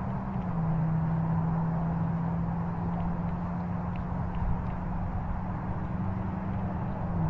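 A steady low mechanical hum, like a motor running, that drops slightly in pitch about half a second in, over a noisy rumble.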